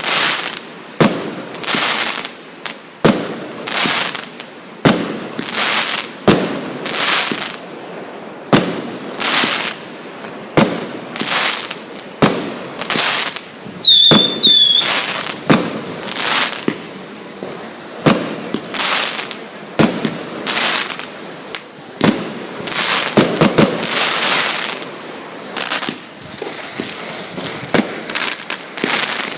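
Fireworks going off in quick succession: sharp bangs about one to two a second, each trailing off in a crackling hiss. About halfway through, two short high whistles cut in.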